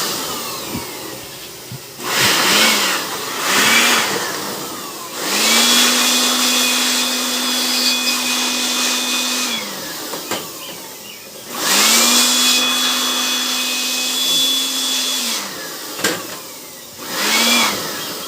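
Small electric motor spinning up with a rising whine, running steadily for about four seconds, then winding down; this happens twice, with shorter bursts of a second or so before and after.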